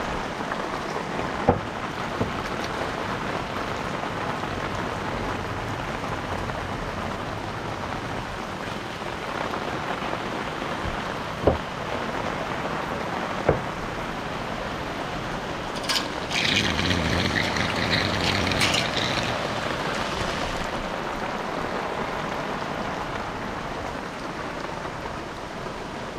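Steady heavy rain falling, with a few sharp knocks and a louder rushing spell of a few seconds about two-thirds of the way through.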